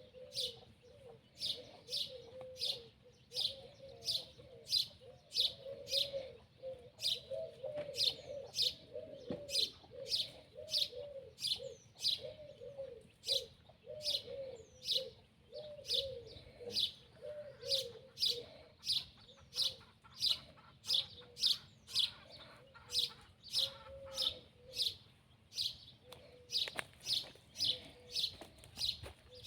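Birds calling: a high, sharp chirp repeated steadily about three times every two seconds, over a lower, wavering repeated call that fades out near the end.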